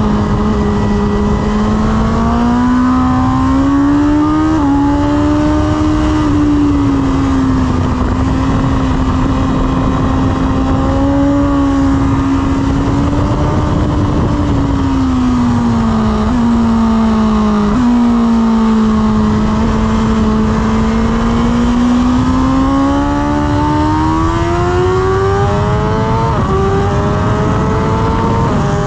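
2023 BMW S1000RR's inline-four engine heard onboard under hard riding, its revs climbing and falling with several sudden steps at gear changes, over steady wind rush. Near the end it pulls up in pitch as the bike accelerates.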